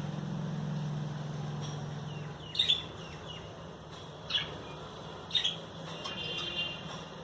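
Small caged parrots, budgerigars and lovebirds, giving three sharp, short downward-sweeping calls a second or so apart, followed by a brief warbling chatter. A low steady hum underneath fades out about two seconds in.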